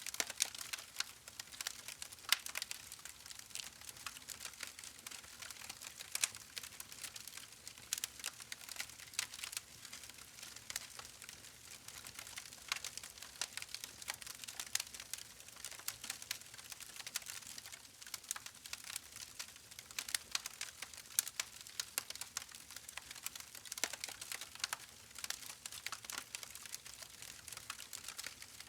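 Campfire crackling, with many quick, irregular pops and snaps of burning wood over a soft hiss.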